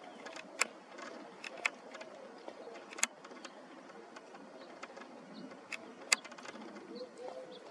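A few sharp clicks, four of them standing out, over a faint steady background hum.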